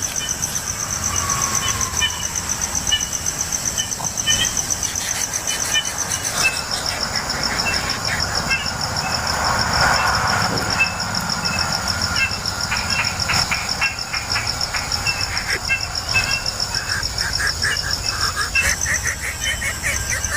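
Steady high-pitched insect chorus, pulsing rapidly, which shifts slightly in pitch twice. Short repeated clicks and a low rumble sit underneath.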